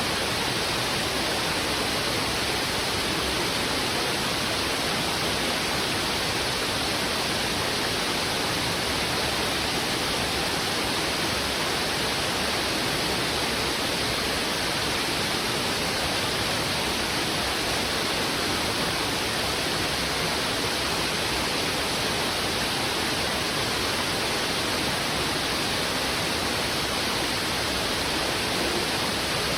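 Heavy river water rushing over rocks: a steady, unbroken hiss with no distinct splashes or other sounds standing out.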